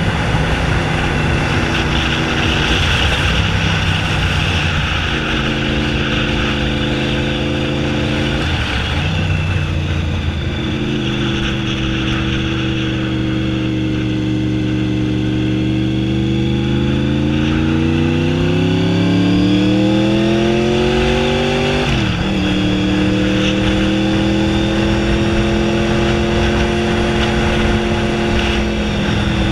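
Honda VFR750F's V4 engine running with no muffler, heard from the moving bike. The note holds steady with a brief dip about eight seconds in, then climbs slowly through a long pull before dropping sharply at a gear change about two-thirds through, and runs steady again after it. Wind rush throughout.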